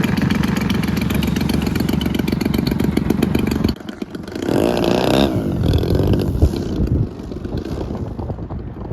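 Model airplane engine running at a steady high speed, cutting off abruptly a little under four seconds in. After that a fainter engine sound rises and falls briefly.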